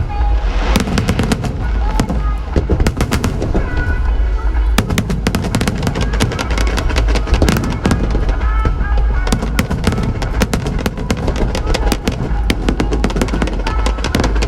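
Fireworks show: many sharp bangs and crackles from bursting shells in quick succession, over a steady low rumble, with music playing along.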